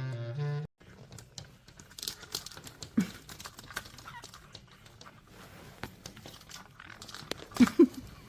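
Crinkling and rustling with scattered small clicks, and two short, sharp pitched sounds near the end.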